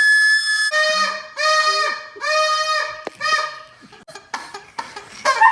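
Party noisemaker horns blown at New Year. A high horn is held for a moment, then a lower-pitched horn sounds four or five short, steady blasts in a row. Faint scattered noises follow before voices come back near the end.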